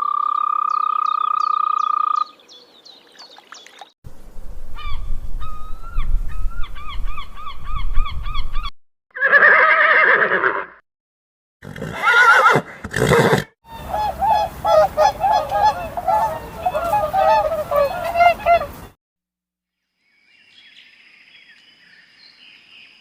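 A string of separate animal calls cut one after another with short gaps: a long steady call at the start, then repeated pitched calls, and a busy run of quick overlapping calls in the second half.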